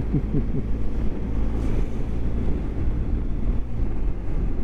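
BMW GS motorcycle engine running under way, heard through wind noise on the rider's onboard microphone. The engine note rises and falls in the first second as the bike filters through queuing traffic.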